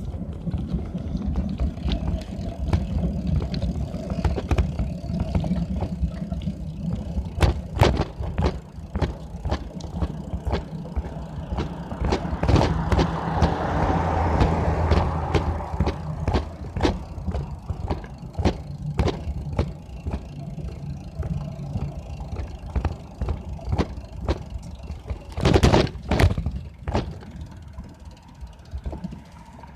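Riding sounds from a bicycle on a bumpy path: a steady low rumble with many sharp rattles and knocks as the bike goes over bumps. A rushing noise swells and fades about halfway through, and a louder burst of knocks comes near the end.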